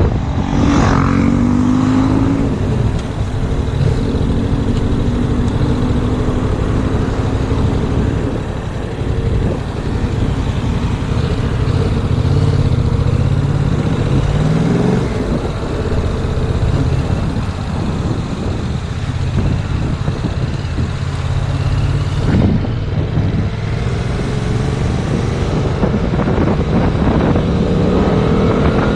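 Yamaha MT-07's parallel-twin engine running on the road, its note climbing as the bike accelerates near the start and again near the end, steadier in between. Heavy wind noise buffets the camera microphone throughout.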